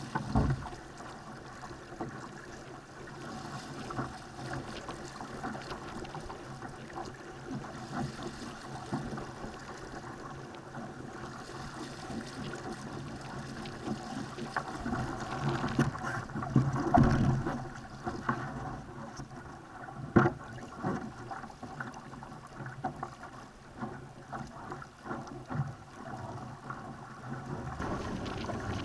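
Laser sailing dinghy moving fast in strong wind, heard from a camera mounted on the boat: continuous rush and slap of water along the hull with wind noise, and scattered knocks from the boat and its fittings. It gets louder and more splashy about halfway through, with a sharp knock a few seconds later.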